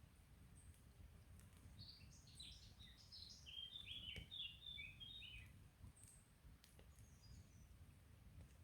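A small songbird sings one phrase of quick short notes that step down in pitch, starting about two seconds in and lasting some three and a half seconds, with a fainter call a little later. Underneath runs a low steady murmur from the stream, with a few faint crackles from the campfire.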